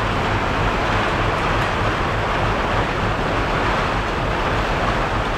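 Heavy storm rain falling in a dense, steady hiss, with a steady low rumble underneath.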